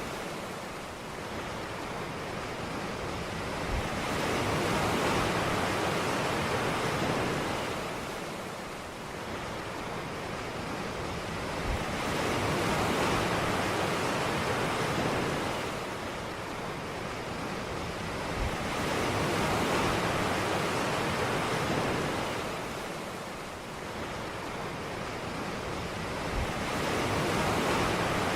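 Ocean surf: waves breaking and washing up a beach, swelling and fading about every seven to eight seconds.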